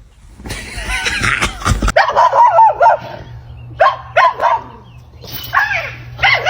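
A dog yipping and whining in three short groups of cries, after a scuffling, rustling tussle in the first couple of seconds.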